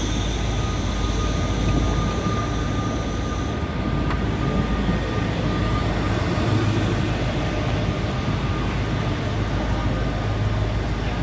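Trenitalia Minuetto regional train moving along the track past a platform, with steady running noise, a low hum and a faint high whine.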